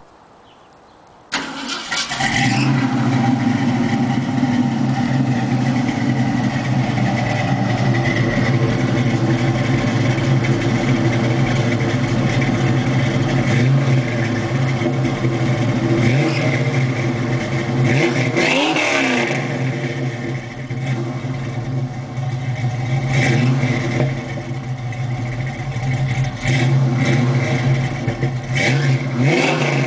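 A 1971 Ford Mustang Grande's 302 V8, breathing through 40 Series Flowmaster mufflers, starts suddenly after a second or so of quiet and settles into a steady idle. Several short revs rise and fall back to idle, the biggest about two-thirds of the way through.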